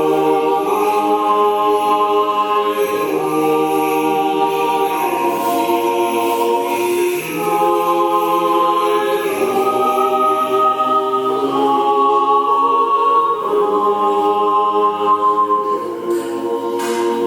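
Church choir singing Orthodox liturgical chant a cappella, in held chords of several voices that move to a new chord every few seconds.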